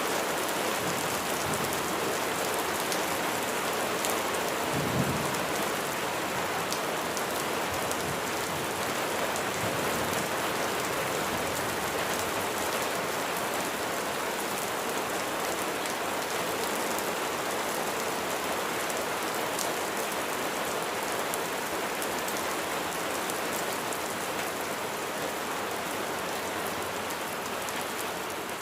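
Steady heavy rain falling on a surface, a dense even hiss of drops, with one brief low thump about five seconds in.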